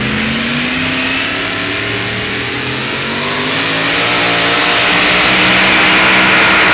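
Pulling truck's engine revving under load down the track, its pitch climbing and growing louder through the second half.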